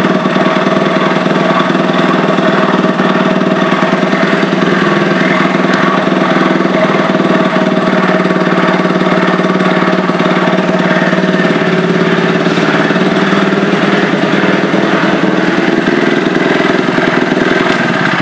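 Honda DAX trike's single-cylinder four-stroke engine, a Monkey R unit bored up to 88cc, running steadily at an even speed.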